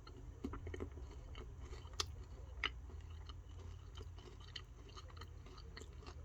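A person chewing a crisped-rice chocolate snack bar: faint, irregular crunching, with two sharper crunches about two and two and a half seconds in.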